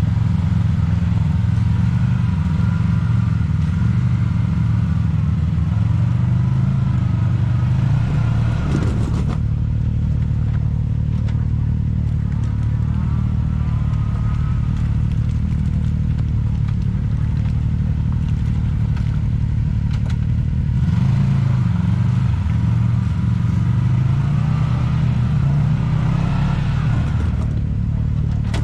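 Off-road vehicle's engine running steadily at high load, revving up and down several times as it works at a rocky hillclimb.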